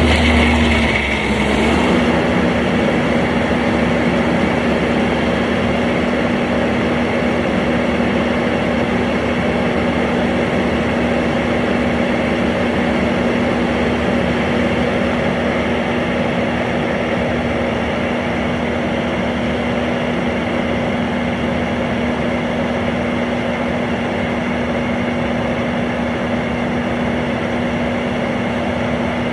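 Construction machine's engine running steadily with a constant hum. About a second in, a deep low rumble drops away.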